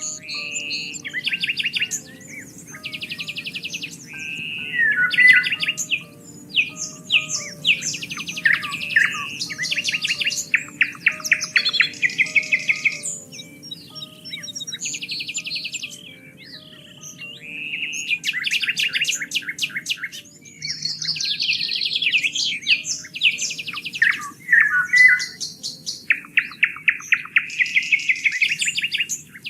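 Several songbirds singing and calling back to back, with fast rattling trills and quick repeated chirps, over a low, steady background hiss.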